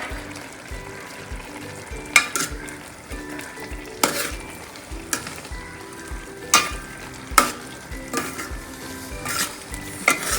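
A pan of chicken curry sizzling while a metal spoon or ladle stirs it, clanking against the pan about eight times.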